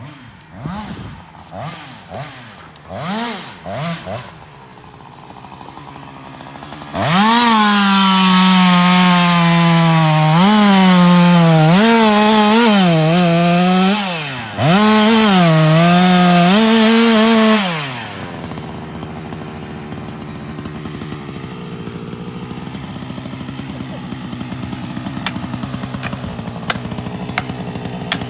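Chainsaw revved in a few short blips, then held at full throttle through a cut for about ten seconds, its pitch dipping and recovering as the chain bites into the wood, with a brief let-off partway through. It then drops back to a low idle.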